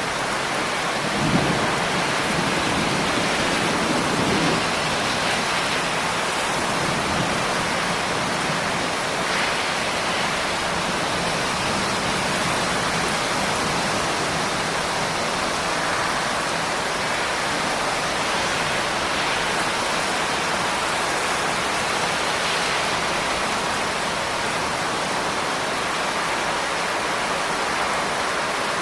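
Steady rain falling. About a second in, a low rumble of thunder swells and fades over a few seconds.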